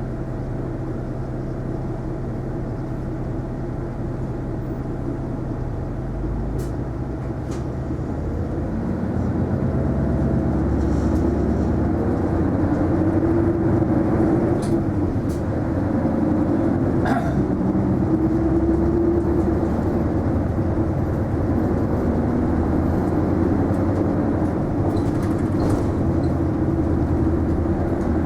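Isuzu Erga non-step city bus heard from inside the cabin: a steady low diesel engine hum that grows louder and fuller about nine seconds in as the bus gets under way, with road noise and a few sharp rattling clicks, the loudest about seventeen seconds in.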